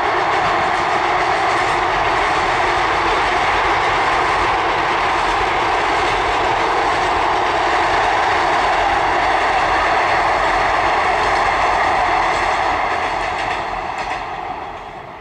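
Electric multiple-unit local train running across a rail bridge: a steady rumble and clatter of wheels on the track that fades over the last couple of seconds as the train moves off.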